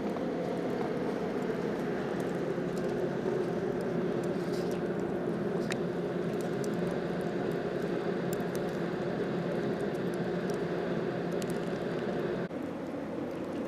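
Steady hum of vehicle and road traffic noise, with scattered faint ticks; the sound changes abruptly near the end.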